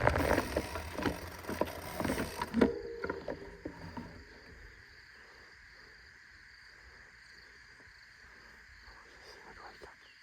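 Mountain bike rolling to a stop: tyre and wind noise with rattling clicks for the first few seconds, fading out by about four seconds in, then only a faint steady background.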